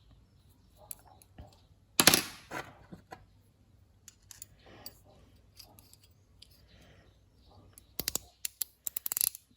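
Small metal parts being handled: a sharp clink about two seconds in, scattered light clicks, and a quick run of clicks near the end.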